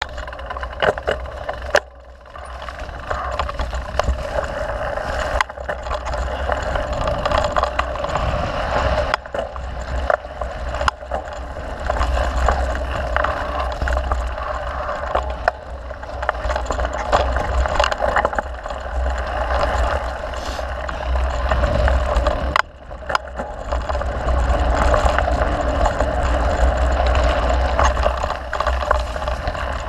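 Mountain bike being ridden along a dirt trail: a steady rumble of tyres and wind with frequent sharp clicks and knocks as the bike rattles over bumps.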